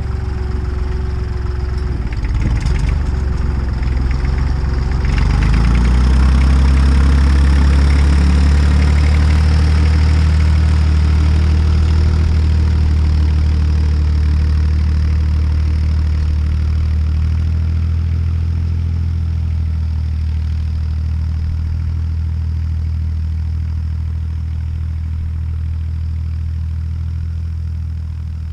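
Tractor diesel engine running, its revs and loudness rising about five seconds in and then holding steady, as it pulls a cultivator through the field.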